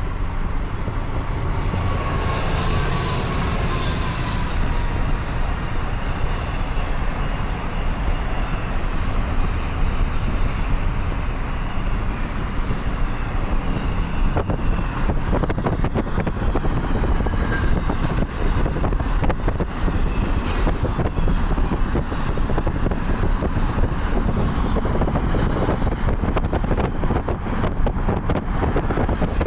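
A train passing close by, with a steady loud rumble and rattle of wheels on rail. A dense run of clicks and clatter builds up through the second half.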